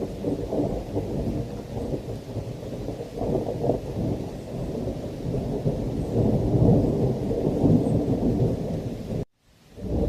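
Thunder rumbling continuously under rain, swelling louder about two-thirds of the way through. About nine seconds in, the sound cuts off abruptly into a brief silence, then fades back in.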